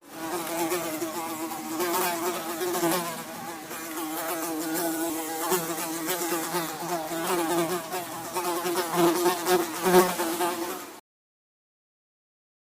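Tsetse fly buzzing in flight: a steady, slightly wavering wing-beat drone with many overtones. It cuts off suddenly about a second and a half before the end.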